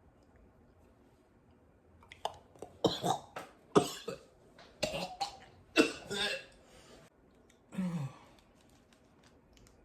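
A man coughing and clearing his throat in a string of harsh bursts, starting about two seconds in and stopping near the end, as he reacts to the taste of a jelly bean.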